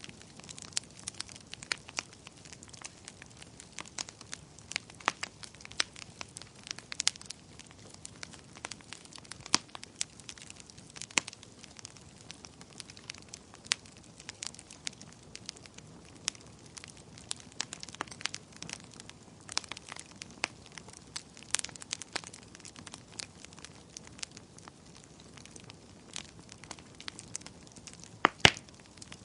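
Wood fire crackling: frequent sharp pops and snaps of uneven loudness over a soft steady hiss, with two loud snaps close together near the end.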